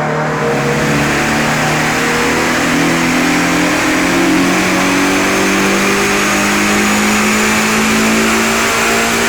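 Subaru BRZ's stock 2.0-litre flat-four engine at full throttle on a chassis dyno, its note climbing slowly and steadily in pitch as it pulls up through the rev range. This is a baseline power run with the factory exhaust.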